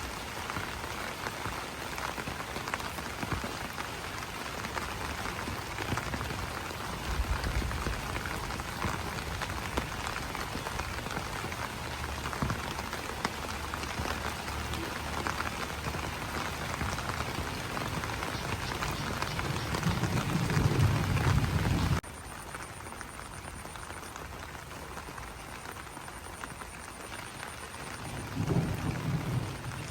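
Rain falling on banana leaves: a dense, even patter of drops. About three-quarters of the way in, the sound abruptly drops quieter and thinner. Low rumbles come just before that drop and again near the end.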